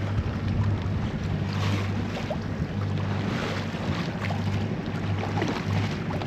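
Sailboat's inboard diesel engine running steadily under way, a low drone, mixed with wind buffeting the microphone and water rushing past the hull.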